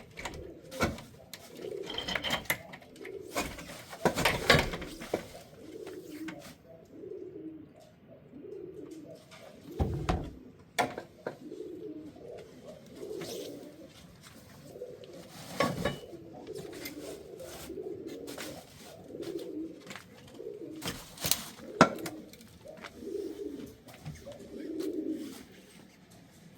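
Pigeons cooing over and over, a soft low warbling call repeated all through, with scattered sharp knocks and clatters among them.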